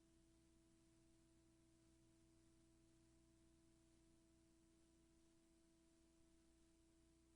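Near silence: only a very faint steady electrical hum and hiss.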